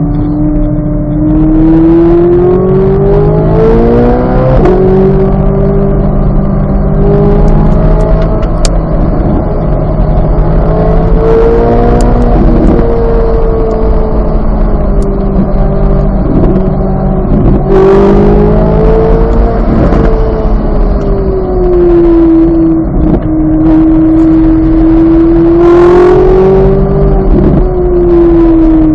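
2023 Chevrolet Corvette Z06's 5.5-litre flat-plane-crank V8 running hard on track. The engine pitch climbs and falls repeatedly, with several sudden drops in pitch at gear changes, over steady road and wind noise.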